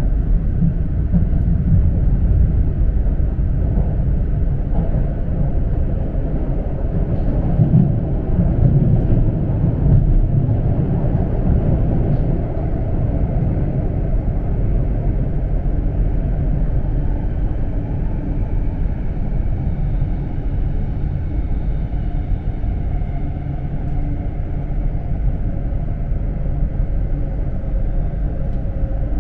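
Steady low rumble of an E4 series bilevel Shinkansen running on the line, heard from inside the lower-deck passenger cabin.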